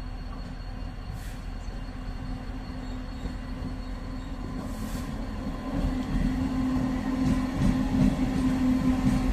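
An electric MEMU train running past on the neighbouring track: a low rumble with a steady hum, growing louder from about halfway through as it comes alongside.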